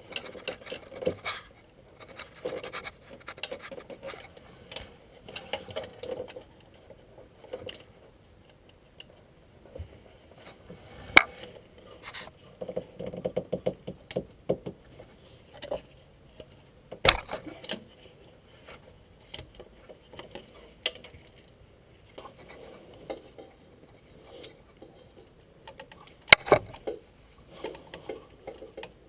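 Metal hand tools clinking and scraping in irregular bursts, with three sharp metallic knocks spread through.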